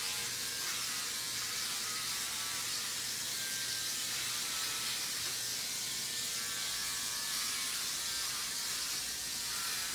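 Electric hair clippers running steadily with a constant buzz while shaving a head down to the scalp.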